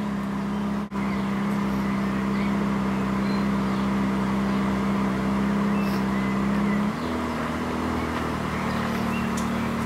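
Ferrari F430 Spider's V8 engine idling steadily, its note shifting slightly about seven seconds in. Birds chirp faintly.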